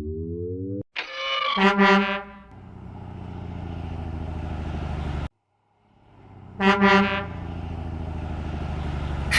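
Truck horn giving a short double honk, followed by a low engine rumble that builds slowly. After a brief break the honk-and-rumble pattern comes again. A short rising tone opens the sequence.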